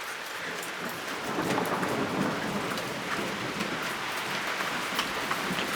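Rain beginning to fall, scattered drops ticking, under a low rumble of thunder that swells about a second and a half in.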